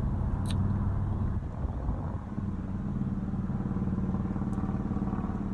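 Car engine running with a steady low hum, heard from inside the cabin, with a light click about half a second in.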